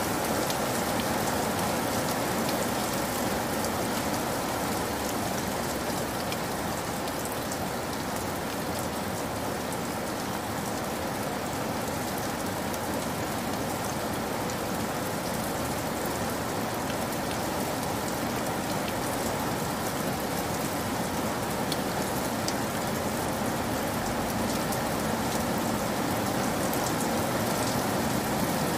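Heavy rain falling steadily and splashing on a wet surface: a dense, even hiss with scattered sharper drop impacts.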